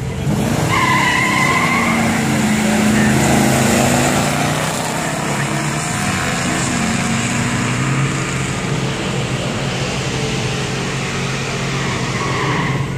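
Two classic cars, one a 1964 Studebaker Daytona hardtop, launching off a drag-strip start line and accelerating hard away down the track, their engines revving up. The sound jumps in level about half a second in and holds loud.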